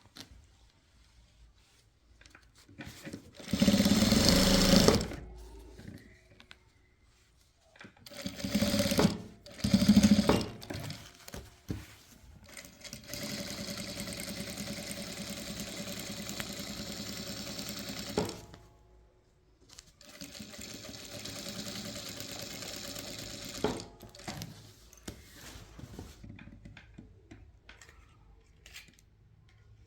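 Sewing machine stitching in separate runs: two longer steady runs of about five and four seconds in the second half. In the first ten seconds there are two shorter, louder bursts of noise.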